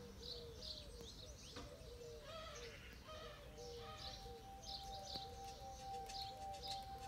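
Small birds chirping and calling, faint: quick repeated short calls with higher chirps among them. A faint steady tone joins about halfway through.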